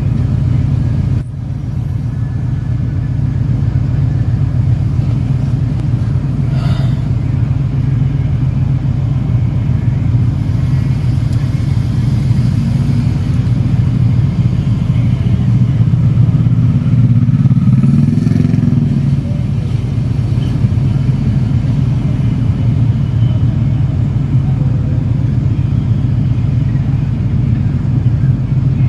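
Motorcycle engine running steadily under a continuous low rumble, with a brief dip about a second in and the engine note swelling and easing around two-thirds of the way through.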